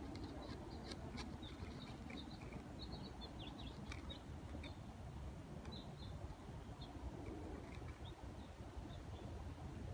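Small birds chirping in the background: quick runs of short, high chirps in the first half, sparser toward the end, over a steady low rumble.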